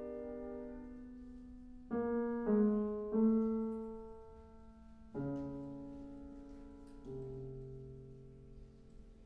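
Piano playing slow, quiet chords: a held chord fades, then about five new chords are struck a second or two apart, each left to ring and die away.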